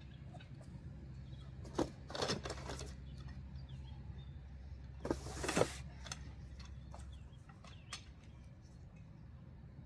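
Clicks and two short scraping, clattering bursts of hands-on work as Springfree trampoline mat rods are handled and set into place. A steady low hum runs underneath and stops about seven seconds in.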